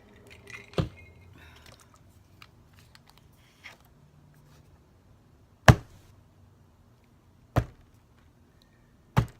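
Four sharp taps or knocks on a work surface, a few seconds apart, the third a little after halfway the loudest, with faint rustling of paper between them.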